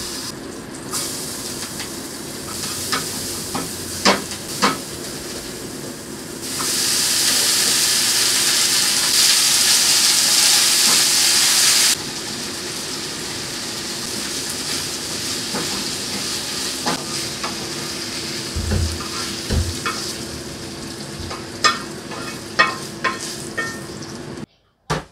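Fish frying in hot oil in a pan: a steady sizzle that gets much louder for about five seconds partway through, with scattered clinks and knocks of a cooking utensil.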